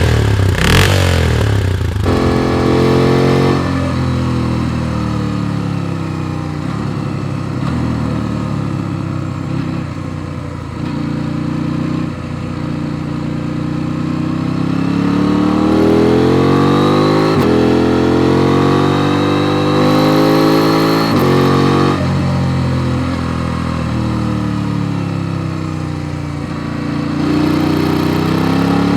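KTM 890 Duke R's parallel-twin engine under way, its revs climbing and then dropping sharply at gear changes, several times over.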